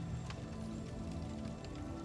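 Soft, slow background music with held tones, over a crackling wood fire giving scattered sharp pops and snaps.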